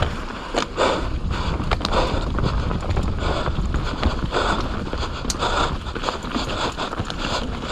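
Mountain bike ridden fast downhill on a wet trail: wind rushing over the microphone, the tyres running over wet dirt, and the bike rattling and clicking over bumps.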